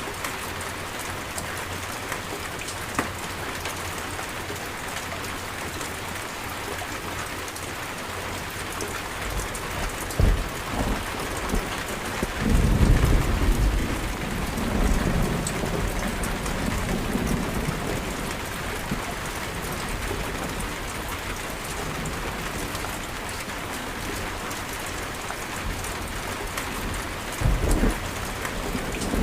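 Steady heavy rain falling, with thunder: a sharp crack about ten seconds in, then a long rolling rumble a couple of seconds later that fades over about six seconds, and another short thunderclap near the end.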